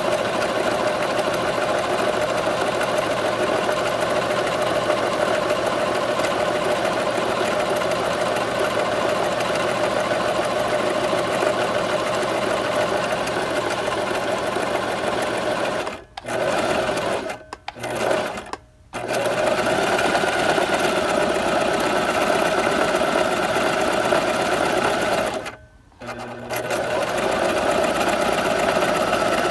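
Sewing machine running steadily at speed, stopping briefly a few times: three short pauses a little past halfway through, and one more near the end before it runs on again.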